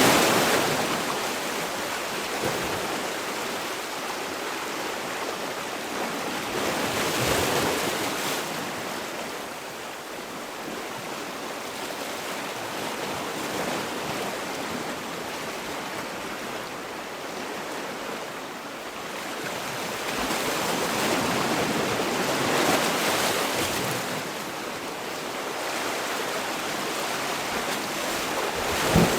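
Sea waves breaking and washing on the shore, the surf swelling and easing every several seconds.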